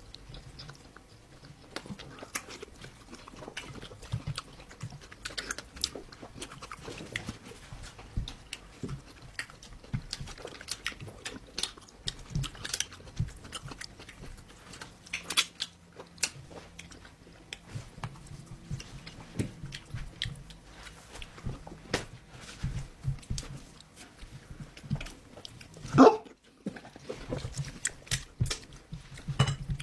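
A person eating stew and meat with her fingers, chewing with wet open-mouthed smacks and lip smacks in many quick irregular clicks. One louder mouth sound comes near the end.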